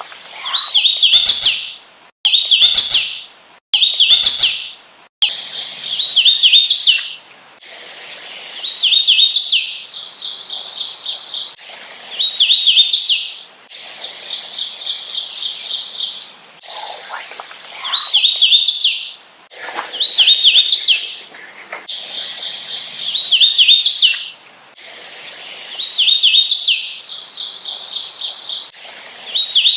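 Hooded warbler singing, repeating its song of quick slurred whistled notes that ends in a higher, emphatic phrase, about a dozen times at intervals of two to three seconds. Fainter, evenly repeated notes fill some of the gaps between songs.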